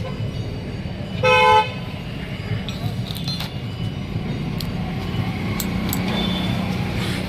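A vehicle horn toots once, briefly, about a second in, over the steady low rumble of road traffic.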